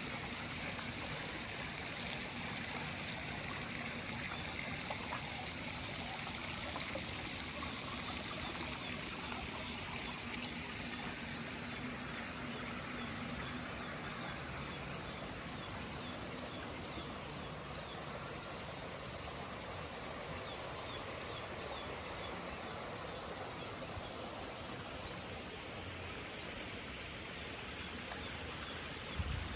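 Water flowing in a stream, a steady rushing and trickling. A brief low thump near the end.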